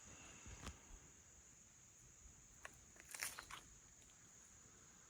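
Near-silent forest with a faint steady high-pitched insect trill, broken by a soft crackle about half a second in and a short burst of rustling and crackling of leaves or twigs around three seconds in.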